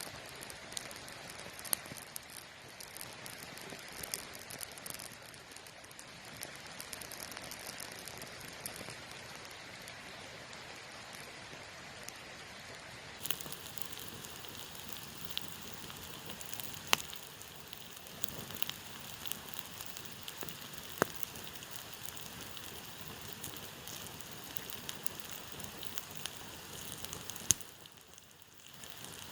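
Campfire burning: a steady hiss and crackle of wood with scattered sharp pops. The sound changes abruptly about halfway through and drops briefly near the end.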